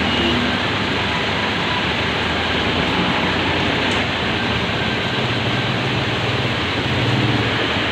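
Heavy rain falling steadily, with a vehicle engine running close by; the engine's low hum grows louder about five seconds in.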